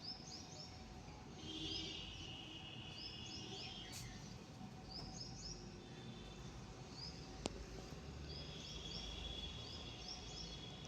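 Small birds chirping faintly, in quick groups of three or four high notes every second or two, over a steady high trill and low background noise.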